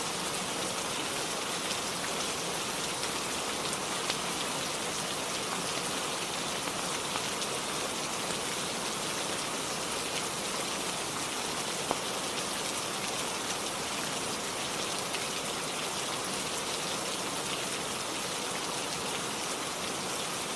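Steady heavy rainfall, an even hiss with scattered faint clicks of individual drops; one sharper click about 12 seconds in.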